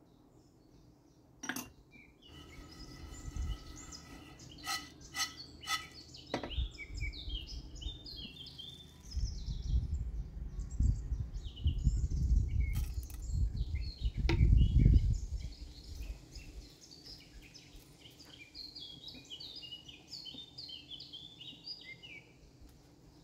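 Small birds chirping repeatedly in quick high notes. A few sharp clinks sound in the first six seconds, and a low rumble swells in the middle and is loudest about 14 seconds in.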